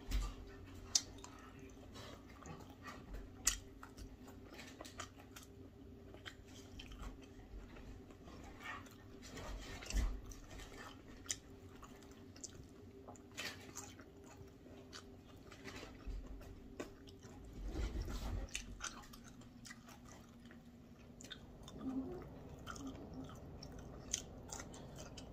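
A person chewing and biting food close to the microphone, with irregular small wet clicks and crunches: boiled cabbage leaves eaten by hand. A faint steady hum sits underneath until near the end.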